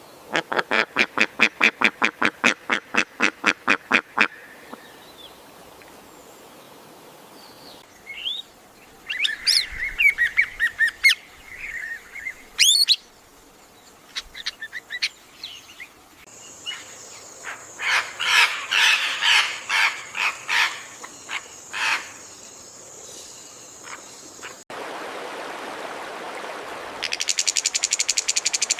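A run of separate bird sounds. It opens with about four seconds of rapid duck calls, four to five a second. Then come chirps and whistled notes, and then a denser burst of calls over a steady high tone. Near the end it changes abruptly to the hiss of running water, joined by a fast, high insect buzzing.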